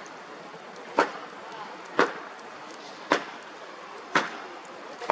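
Sharp knocks, evenly spaced about one a second, each with a short ring after it, over a steady background hiss.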